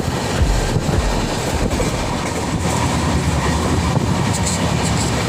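Passenger train running along the track: a steady loud rumble with occasional clacks of the wheels over rail joints.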